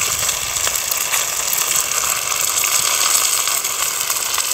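Oil sizzling steadily around breaded sea bass cutlets frying in a pan, with fine crackles throughout.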